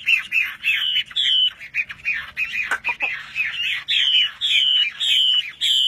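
Songbird singing a varied, rapid song of sharp chirps and whistled notes, settling into a run of repeated down-slurred whistles at about two a second.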